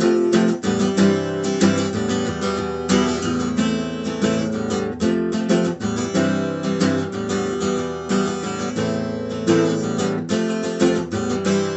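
Guitar strumming chords in a steady rhythm, with no singing.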